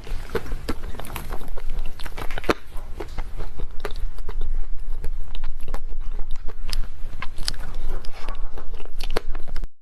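Close-miked eating of a dessert: bites and steady chewing with many sharp, wet mouth clicks and occasional crunches. It cuts off suddenly near the end.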